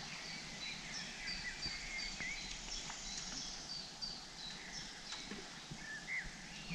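Songbird singing: a series of short high notes repeated about two or three times a second, stopping about five seconds in, with other birds' chirps lower down over a quiet outdoor background.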